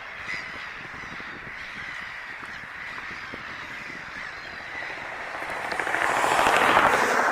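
Birds calling outdoors over a steady background hiss, with a broad rushing noise swelling up about five seconds in and peaking near the end.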